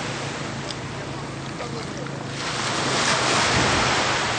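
Wind buffeting the microphone over rushing water, with a low steady hum underneath, which may be a jet ski's engine. The rush swells about two and a half seconds in.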